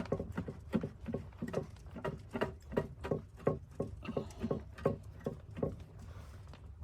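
Footsteps: a quick, even run of soft thuds, about three a second, that stops about a second before the end.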